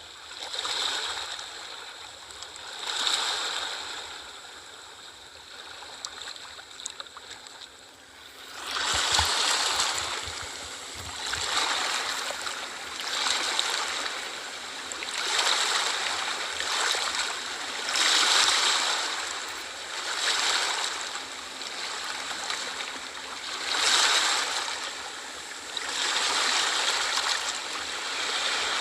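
Ocean waves washing in and drawing back, each swell rising and fading every two to three seconds, louder from about eight seconds in.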